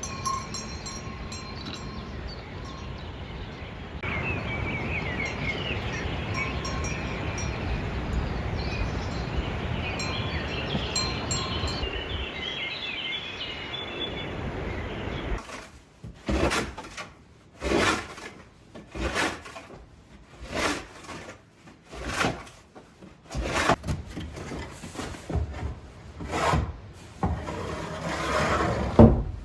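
Birds chirping over a steady outdoor hiss, then, from about halfway, a series of rasping, scraping strokes, roughly one a second.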